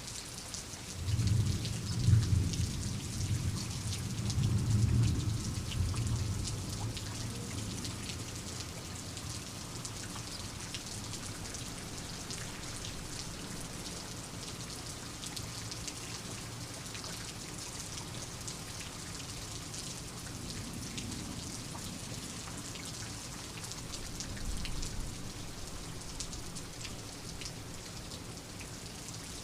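Steady rain falling with individual drops ticking, and a rolling rumble of thunder about a second in that builds over several seconds and dies away; a fainter rumble rises again near the end.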